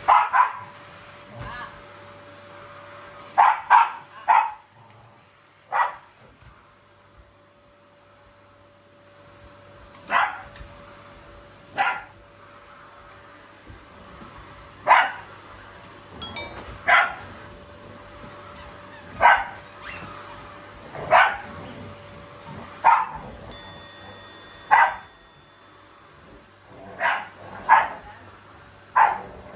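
Dog barking at a vacuum cleaner in short, sharp single barks every one to three seconds, with a few quick pairs and threes, over a faint steady hum.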